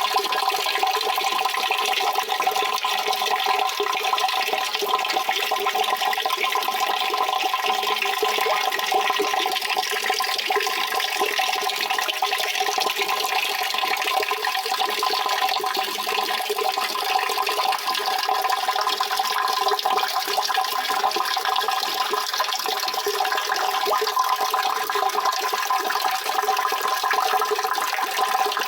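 Water rushing steadily and without a break, a continuous hissing wash with a faint steady tone running through it.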